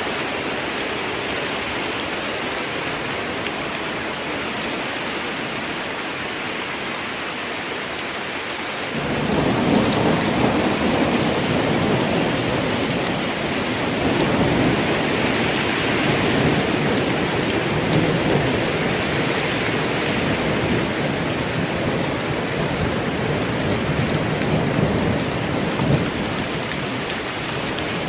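Steady rain falling in a rainstorm, with a long roll of thunder that comes in about nine seconds in and rumbles on, slowly easing, until near the end.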